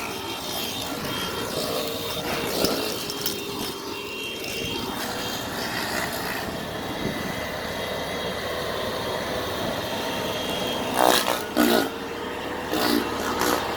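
An engine running steadily at an even speed, with short voices breaking in about three-quarters of the way through.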